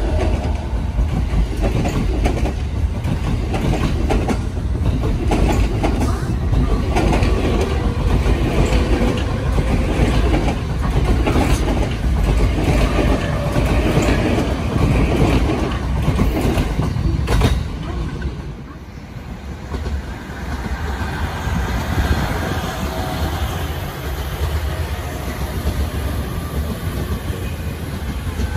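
An electric commuter train runs past close by, with a steady heavy rumble and wheels clicking over the rail joints. The noise drops off sharply about two-thirds of the way in. A quieter second train then runs on a farther track.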